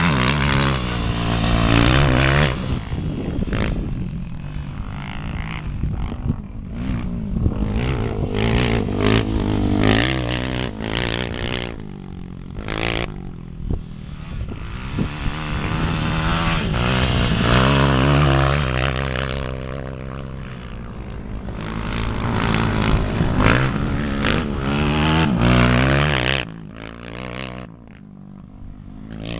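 Off-road motorcycle engine of a 250 cc race class, revving up and falling back again and again as it is ridden over rough ground, with scattered knocks and clatter.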